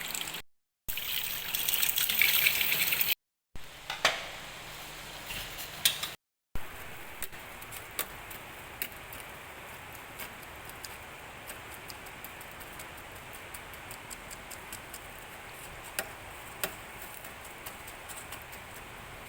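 Kitchen sounds in short cut clips. About a second in comes a loud burst of running or pouring water lasting about two seconds, and after that a steady hiss with scattered light clicks and ticks.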